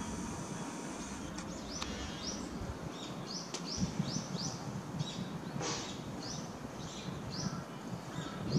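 A small bird calling over and over: short, high, upward-sweeping chirps, about two a second.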